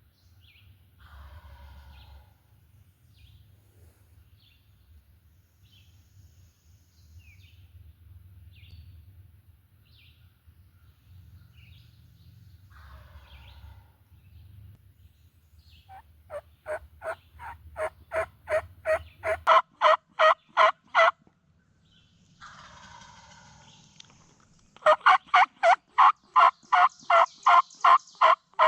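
Wild turkey calls: a few fainter, gobble-like calls, then two loud runs of rapid, evenly spaced turkey yelps of about a dozen notes each, the first building in loudness and the second quicker. A low rumble runs under the first half.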